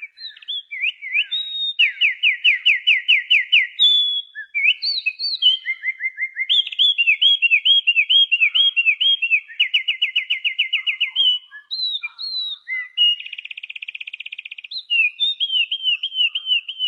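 A songbird singing a long, varied song that resembles an oriental magpie-robin's. The song is made of clear whistled phrases, each a quick series of repeated slurred notes at about five a second, with a fast buzzy trill about thirteen seconds in.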